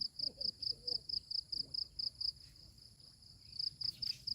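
Insect chirping in a steady, fast, high-pitched pulse, about five chirps a second.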